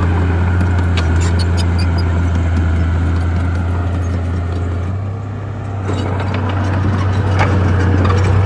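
Bulldozer's diesel engine running with a steady low drone, with scattered clanks and squeaks from the steel tracks. The engine eases off about five seconds in, then picks up again.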